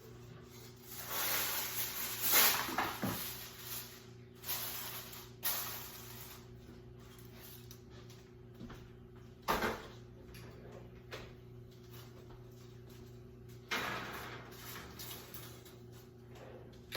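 Kitchen handling sounds: several bursts of rustling and a sharp clunk, over a steady low hum.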